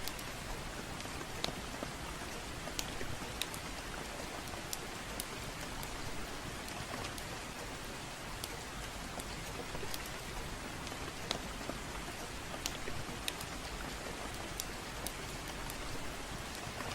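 Steady gentle rain, with sharp crackles from a wood fire popping at irregular intervals, about one or two a second.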